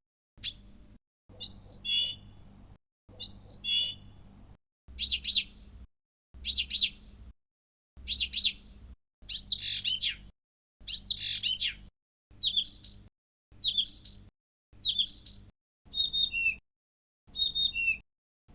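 Short song phrases and calls of a Blyth's reed warbler, cut from recordings and played one after another, each phrase repeated two or three times with brief silences between. The phrases change several times: a rising-and-falling whistle twice, a chattering phrase three times, then other whistled notes that drop in pitch.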